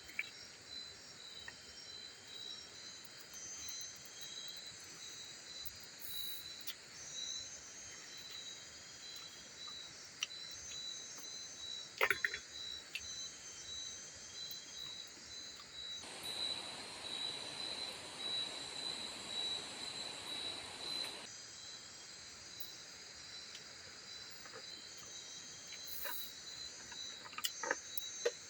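Insects chirping steadily in the forest, with a fast pulsing high-pitched trill. A sharp knock comes about twelve seconds in, a hiss rises and cuts off after about five seconds in the middle, and a few light knocks come near the end.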